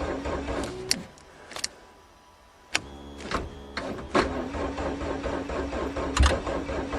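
Car starter motor cranking the engine slowly on a nearly dead battery without it catching: a steady whine with clicking that stops about a second in, then after a clunk near three seconds starts cranking again.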